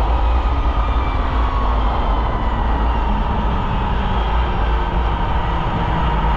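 Polaris Indy snowmobile running steadily under way, its engine note holding fairly even with a slight drift in pitch over a heavy low rumble.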